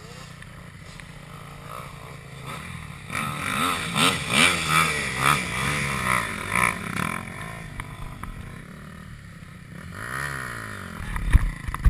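KTM 250 SX-F single-cylinder four-stroke motocross engine revving up and down in repeated bursts, loudest in the middle stretch, with a few low thumps near the end.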